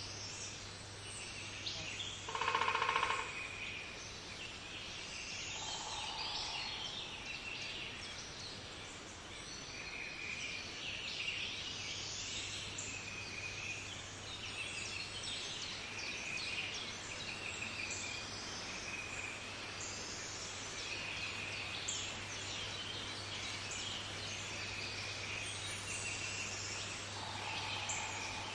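Wild birds calling and chirping steadily, many short high notes overlapping, with a loud rapid rattling call about two to three seconds in and fainter calls near the middle and end.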